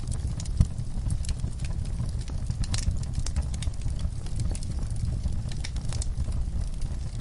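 Wood fire crackling, with frequent irregular pops and snaps over a steady low rumble; one sharp pop stands out about half a second in.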